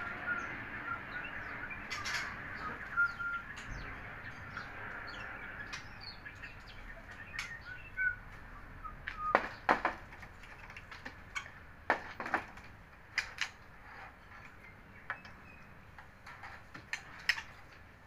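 Short, high bird chirps, mostly in the first half, with sharp clicks and taps scattered throughout; the loudest taps come around the middle.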